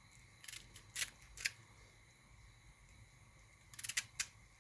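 A few short, sharp clicks and scrapes, three spaced out in the first second and a half and a quick cluster near the end, over quiet room tone.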